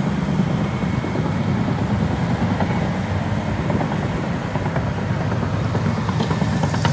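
Heavy diesel engine running steadily with a deep, even drone, with scattered small clicks and rattles over it.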